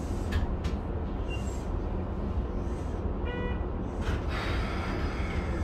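Steady low rumble inside a Keikyu 1500 series electric train car running on the track, with a few short clacks. A brief pitched tone sounds about three seconds in, and a hiss rises near the end.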